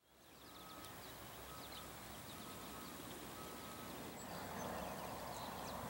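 Small birds chirping: short high chirps repeating irregularly over steady background noise, which grows louder about four seconds in.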